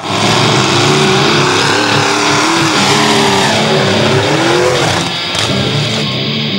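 Mega truck engine revving hard under racing load, its pitch rising and falling, with some tire-spin noise. It starts suddenly and drops a little about five seconds in.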